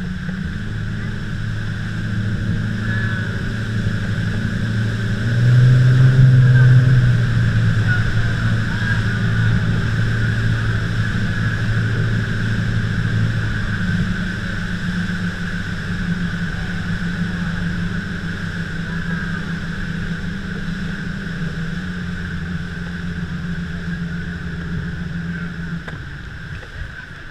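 A tour boat's engine running steadily, a low drone heard from on board, swelling louder for a couple of seconds about five seconds in. The drone drops away near the end.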